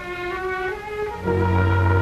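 Orchestral film score led by violins playing a slow sustained melody; about a second in, a fuller chord enters with a low bass note and the music grows louder.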